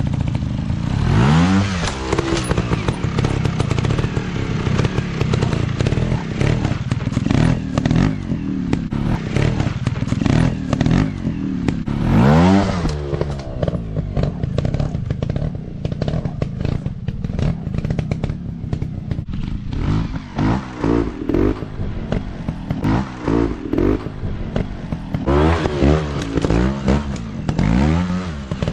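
Dirt bike engines running and revving up and down, with sharp rises in revs about a second in, around twelve seconds in and several times near the end, over a steady clatter.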